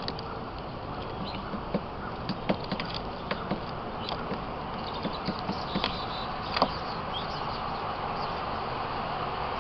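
Steady outdoor background noise with scattered sharp taps and clicks, the loudest about six and a half seconds in, and a brief high bird chirp about three and a half seconds in.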